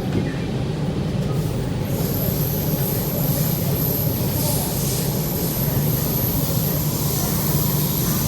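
MTR Rotem EMU metro train heard from inside the car while running between stations: a steady low rumble and hum of the moving train with hissing wheel-and-rail noise. A thin, very high whine joins about two seconds in.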